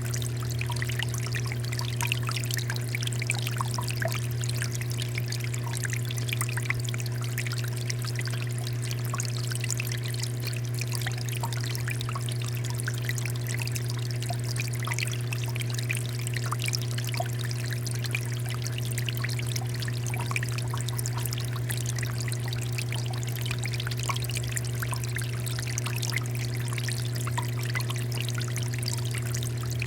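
Water fountain flowing steadily, water pouring and splashing with fine droplet patter, over a constant low hum.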